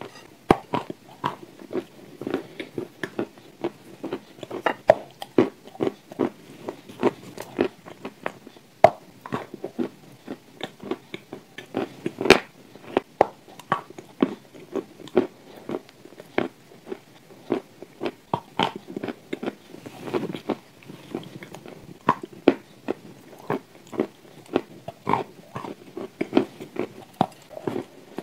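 Close-miked eating sounds: a person biting and chewing dry, crumbly pieces, with soft, irregular crunches several times a second and one sharper crunch about twelve seconds in.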